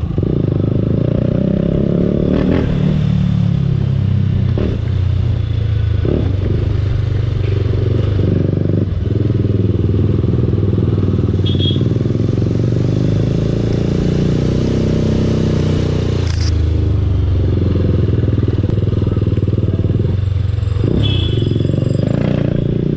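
TVS Apache RR 310's single-cylinder engine running under the rider as the bike is ridden through traffic, its pitch rising and falling with the throttle and gear changes. Two brief high beeps sound, about halfway through and near the end.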